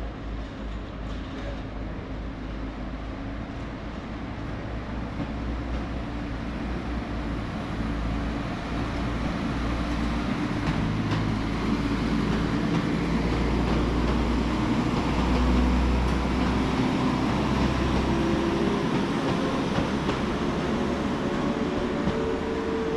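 A passenger train pulling into a station platform. Its rumble grows louder over the first two-thirds, and steady humming tones come in as it slows.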